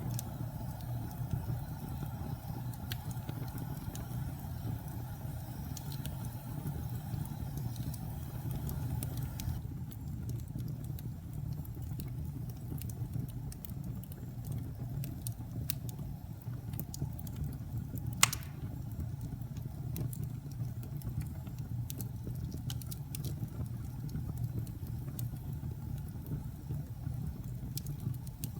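Fire burning in a fireplace: a steady low rumble of flames with scattered small crackles and one loud pop about two-thirds of the way through.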